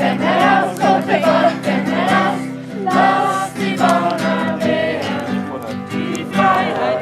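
A group of voices singing a German song together, over a steady accompanying instrument that holds sustained low notes.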